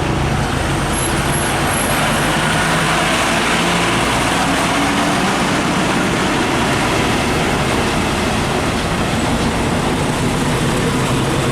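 Heavy diesel truck running close by on the road, a steady engine drone under tyre and traffic noise.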